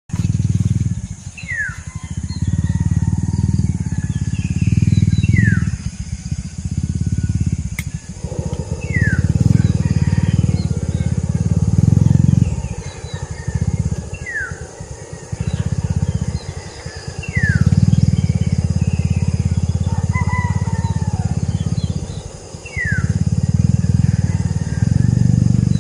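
Wind buffeting the microphone in gusts, with a bird repeating a short falling whistled call every few seconds.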